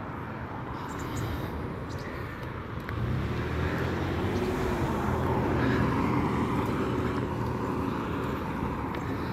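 Steady engine rumble from passing traffic or aircraft, growing louder about three seconds in, with a faint droning tone through the middle.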